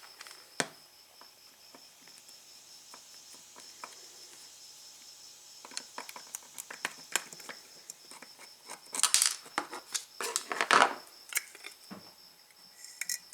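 Light clicks and metallic clinks of a small screwdriver and tachometer parts being handled while the gauge is taken apart, with a few louder flurries of clatter near the end.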